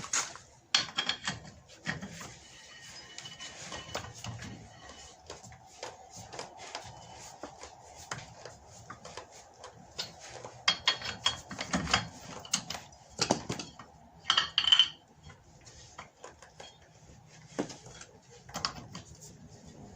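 Car wheel bolts being unscrewed with a wrench: irregular metal clinks, knocks and scrapes, with denser, louder clatters in the middle.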